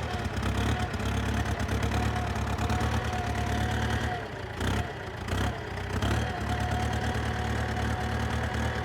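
Ford 7000 tractor's diesel engine idling just after a cold start at 34°F. A steady whine sits over the engine's running, and the level dips briefly twice near the middle.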